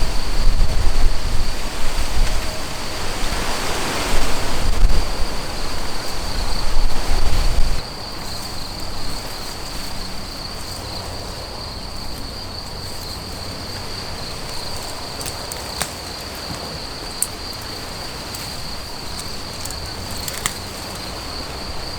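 An insect, a cricket or bush-cricket, trilling steadily on one high note throughout. For about the first eight seconds a loud low rumbling noise lies under it, then the background settles to a quiet outdoor hush with a few faint clicks.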